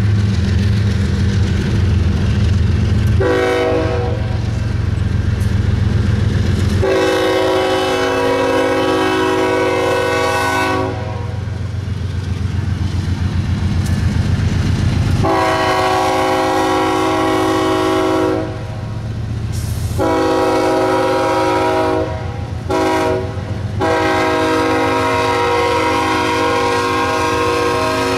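Freight train passing close by. The deep rumble of diesel locomotives runs for the first several seconds, then gives way to the steady clickety-clack of freight car wheels over rail joints. Over it a locomotive air horn sounds a series of blasts, mostly long with one short blast near the end.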